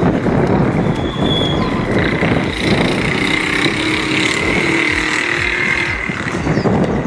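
A light aircraft's piston engine and propeller running steadily under a loud rush of wind and rumble.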